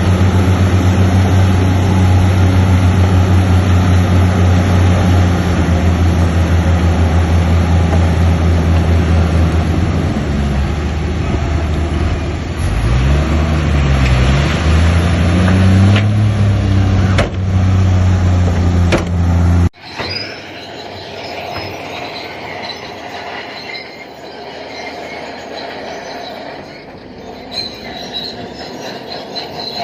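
Bulldozer's diesel engine running hard and loud, its pitch dipping and climbing again partway through as the load changes. About twenty seconds in the sound cuts off abruptly to a quieter stretch of high metallic squealing and clatter, typical of a crawler's steel tracks.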